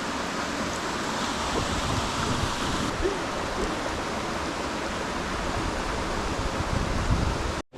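Steady rushing of mountain stream water, with an uneven low rumble beneath it. It cuts off abruptly near the end.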